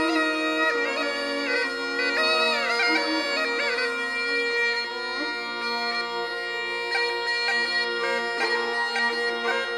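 Rajasthani folk instrumental music on kamaicha and morchang: a sliding, ornamented melody over a steady drone. Drum strokes come in near the end.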